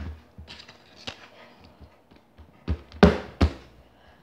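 Knocks and taps from slime and its plastic container being handled on a table, with three loud sharp knocks close together about three seconds in.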